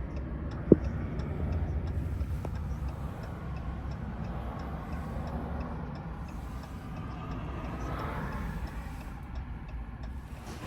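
Low, steady rumble of a 2024 Ram 1500 Hemi V8 and road noise heard from inside the cab while driving, with a single sharp click less than a second in and faint regular ticking.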